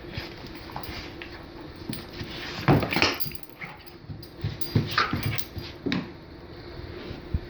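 A dog making short, irregular vocal sounds. The loudest comes about three seconds in, with a cluster of shorter ones around five seconds.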